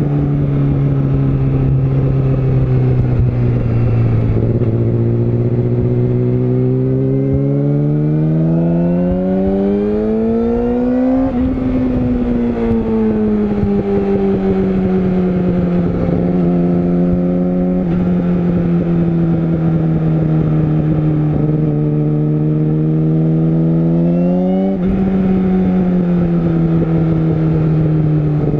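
Yamaha YZF-R6 (RJ27) 600 cc inline-four engine under way. It holds a low steady note, then revs up over a few seconds and drops sharply. It eases down to a steady mid pitch, then climbs and drops sharply again near the end.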